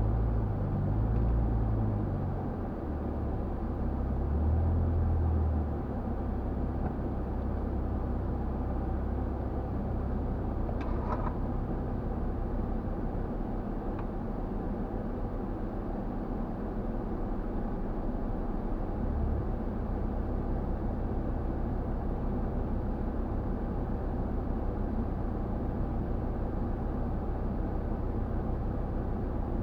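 Off-road vehicle driving on desert terrain: a steady low engine and drivetrain drone, heavier and rumbling for the first few seconds, then settling to an even hum.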